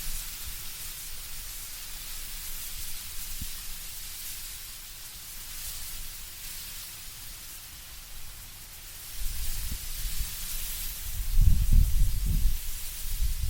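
Wind blowing through autumn trees, the leaves rustling as a steady hiss. About nine seconds in, gusts bring a low rumble that swells and is loudest near the end.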